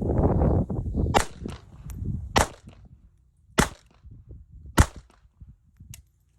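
Ruger LCP II .22 LR pocket pistol firing four evenly spaced single shots about 1.2 seconds apart, loaded with Winchester Power Point rounds. A loud rush of noise fills the first second.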